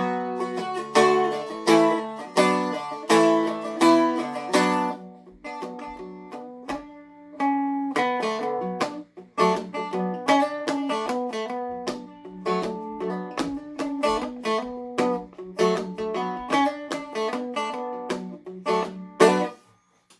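Seagull Merlin M4, a four-string dulcimer-style instrument, flatpicked in B minor: a picked melody mixed with strummed chords. It ends on a loud strum about a second before the end.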